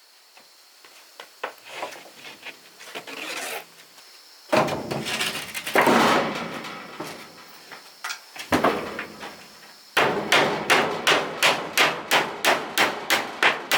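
Hand tools working timber: a few scattered knocks, then a stretch of rough scraping on wood, then a fast, even run of strokes on wood, about four a second.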